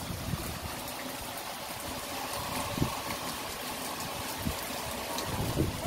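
Heavy rain falling in a steady hiss, with scattered louder drops striking close by, the sharpest about three seconds in.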